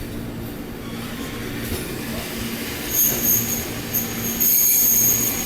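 JR East 205 series electric commuter train rumbling along the track, then its wheels squealing against the rails: high-pitched squeals start about three seconds in, come and go, and hold steady and loudest near the end.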